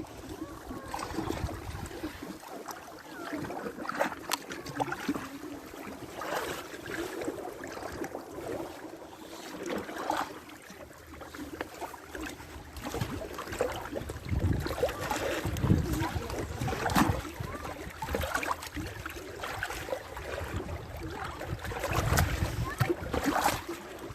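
Ice on a frozen pond cracking, with many sharp cracks, some trailing into short wavering, whistling tones: the 'cosmic', laser-like sound of a pond's ice sheet.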